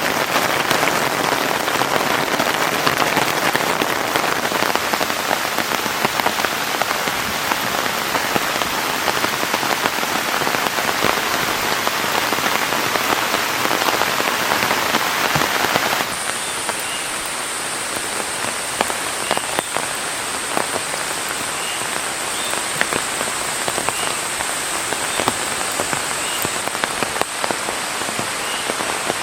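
Heavy rain pouring steadily, a dense hiss of drops. About halfway through it switches abruptly to a slightly quieter rain sound, with a steady high whine and faint short chirps repeating every second or so.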